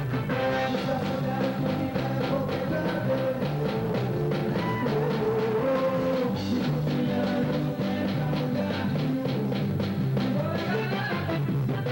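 A band playing music, with a drum kit keeping a steady beat under pitched instruments and a melody line.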